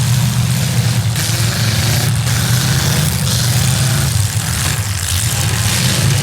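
Demolition derby cars' V8 engines running loudly together, with short sharp knocks about one and two seconds in.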